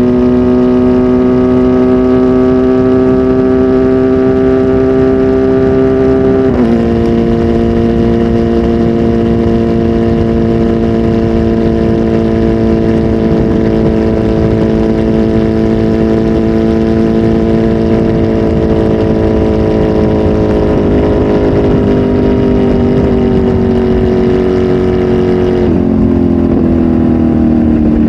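Kawasaki Z H2 SE's supercharged inline-four, flash-tuned and on a full exhaust, running loud at steady high revs. Its pitch holds nearly level, dropping slightly about six seconds in and again near the end.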